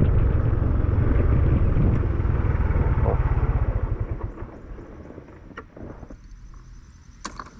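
Yamaha NMAX scooter's single-cylinder engine running with a fast, even low pulse, then dying away about four seconds in. A couple of light clicks near the end.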